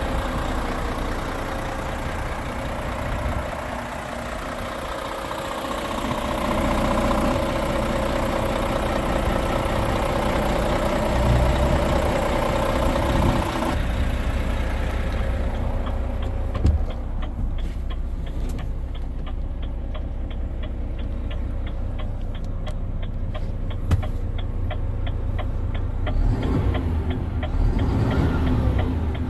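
Renault T 460 truck's 11-litre straight-six diesel engine running steadily. About halfway through the high hiss drops away, leaving the lower engine note with fine rapid ticking.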